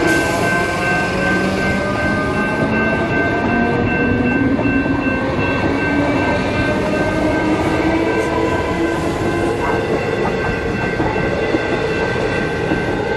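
Electric suburban train passing over a level crossing, wheels rumbling and clicking on the rails, with a motor whine that rises slowly in pitch. The crossing's warning bells ring as two steady high tones above it.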